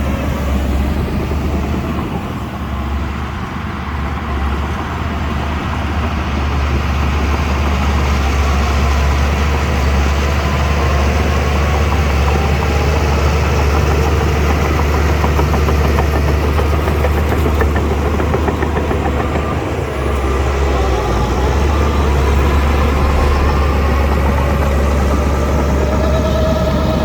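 Shantui DH17C2 bulldozer's diesel engine running steadily under work, a heavy low rumble with a faint whine that falls early on and rises again near the end.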